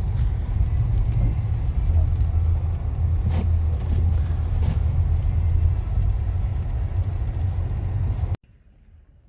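Car driving, a steady low rumble of engine and road noise heard from inside the cabin, which cuts off suddenly near the end.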